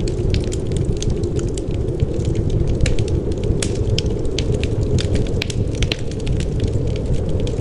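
Wood fire crackling in a fireplace, with frequent sharp, irregular pops and snaps, several a second, over a steady low rush of wind.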